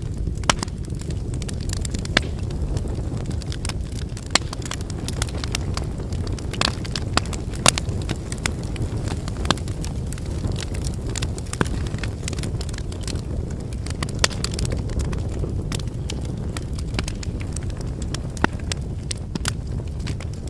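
Wood campfire burning: a steady low rumble of flames with frequent irregular crackles and pops from the burning firewood, a few of them sharper and louder.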